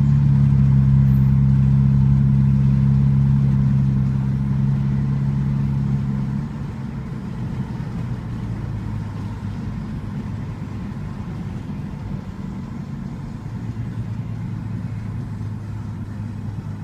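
Car engine and road noise heard from inside a moving car: a steady low drone that drops away about six seconds in, leaving a quieter rumble.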